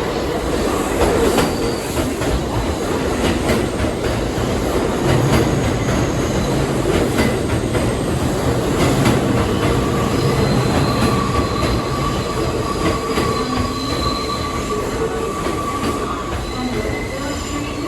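New York City subway train running, a steady loud rumble with clicks from the wheels over the rails. From about ten seconds in, the wheels squeal with a thin, steady high-pitched tone.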